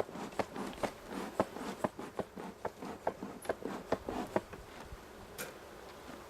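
Honeybees buzzing around an open hive. Over the buzzing comes a run of short ticks, about two and a half a second, that stops about four and a half seconds in.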